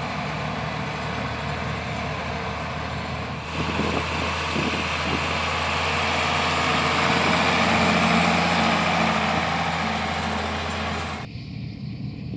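International 856 tractor engine running, just brought back to life after sitting a long time with a stuck engine. It runs steadily, grows louder about three and a half seconds in, then drops away abruptly near the end.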